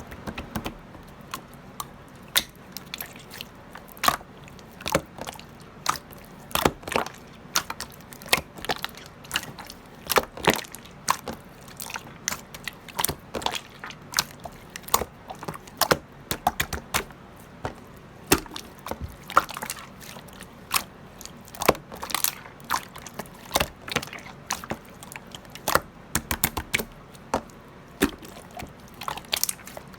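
Irregular sharp clicks and taps, several a second, with uneven spacing and loudness.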